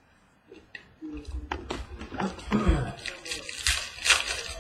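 Trading cards being handled and shuffled from a freshly opened pack: light clicks and rustling that grow denser and hissier toward the end.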